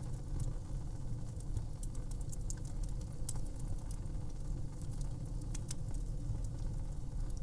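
Fire crackling: a steady low rumble of burning with frequent small sharp pops and crackles scattered irregularly throughout.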